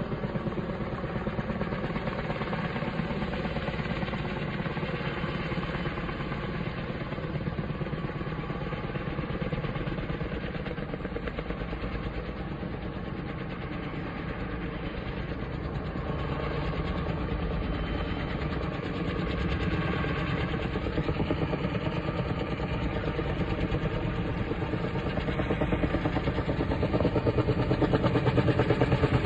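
Helicopter running with a steady, rapid rotor beat, growing somewhat louder over the last few seconds.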